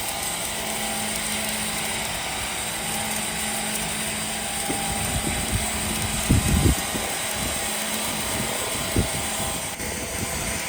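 Machinery running steadily with a constant hum and hiss, with a few heavy knocks about six seconds in and another near nine seconds.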